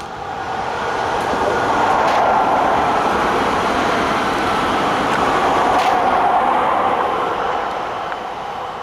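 A Régiolis regional passenger train running past at speed: a steady rush of wheels on rail that swells over the first couple of seconds, holds, and fades away near the end.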